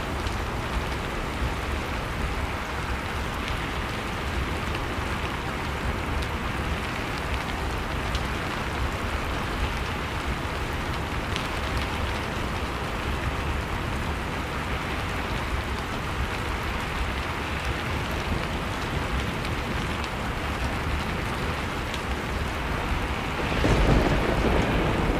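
Blizzard wind blowing steadily, mixed with a crackling fireplace: a dense hiss with scattered small pops. Near the end a louder deep rumble swells up.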